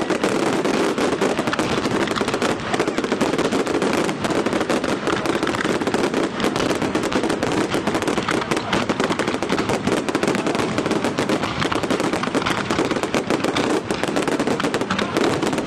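Fireworks going off in a dense barrage: shell bursts and crackles packed so closely that they run together into one continuous rattle, without a pause.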